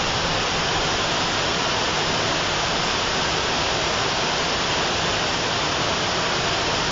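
Waterfall in flood after heavy rain: a steady, unbroken rush of heavy water pouring down the falls.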